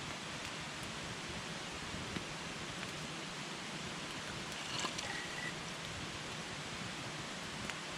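Wood campfire burning: a steady hiss of flames with a few sharp crackles, the loudest pop about five seconds in followed by a brief faint whistle.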